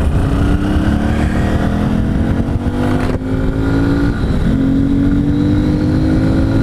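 Honda Bros 160 single-cylinder engine accelerating through the gears. Its pitch climbs steadily and drops at a gear change about three seconds in and again about four seconds in. The intake snorkel has been removed from the air-filter box, which makes the intake sound louder under throttle.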